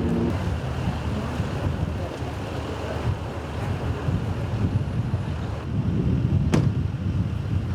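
Wind buffeting the microphone outdoors, a steady low rumble, with one sharp click about six and a half seconds in.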